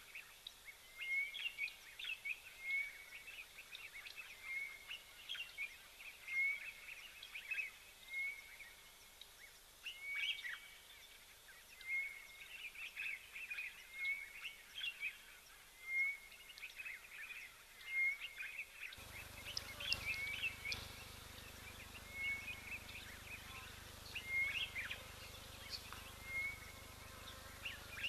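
Wild birds calling in the bush: one repeats a short high chirp about once a second, with other scattered chirps and calls among it. About two-thirds of the way through, a steady low background noise suddenly comes up and stays.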